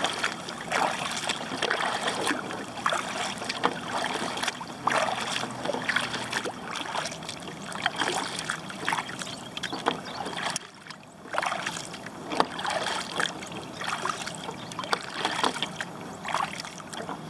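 Kayak paddle strokes splashing in the water at a steady pace, with water trickling off the blades. The strokes let up for about a second a little past halfway.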